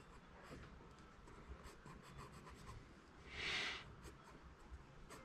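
Pencil lead scratching on paper in short, light strokes as a cartoon wolf's nose is sketched, with one louder half-second rush about three and a half seconds in.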